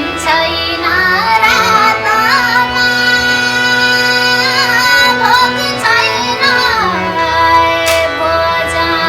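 A woman singing a Nepali song in a high, light voice over keyboard accompaniment with sustained low notes.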